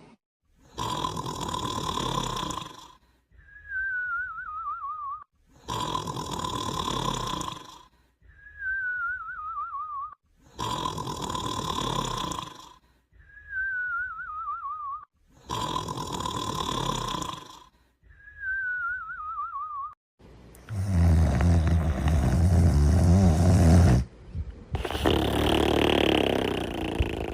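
Cartoon character snoring: four even cycles of a rasping in-breath snore, each followed by a wavering whistle that slides down in pitch on the out-breath. Near the end come two louder, deeper snores.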